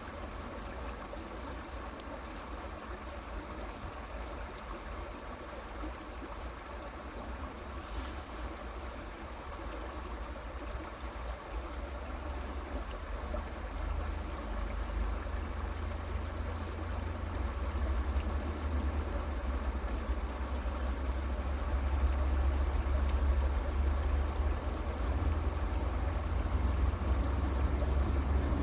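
Creek water flowing steadily in an even rushing wash. A low rumble underneath grows louder from about halfway through.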